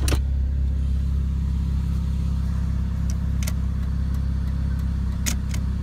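2000 Chevy Cavalier's 2.2-litre four-cylinder engine idling steadily, with a few light clicks over it. The car is said to have a muffler issue.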